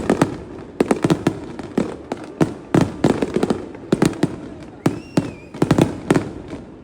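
Aerial fireworks shells bursting in quick volleys of sharp bangs, several clusters about a second apart, each bang trailing off in a rumble, dying down near the end.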